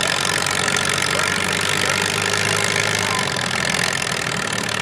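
Antique pulling tractor's engine running loud and steady, holding an even pitch.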